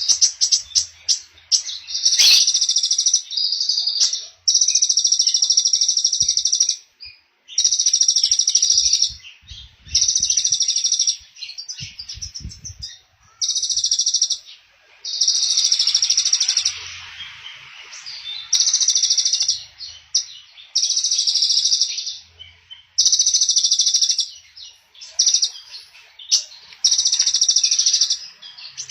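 A small songbird singing a rapid high trill in bursts of about a second, over and over, roughly every two seconds.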